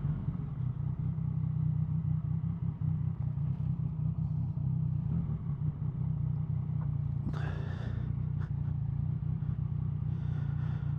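Motorcycle riding at a steady pace on an open road: a constant low engine and wind rumble, with a brief hiss about three quarters of the way through, cut off suddenly at the end.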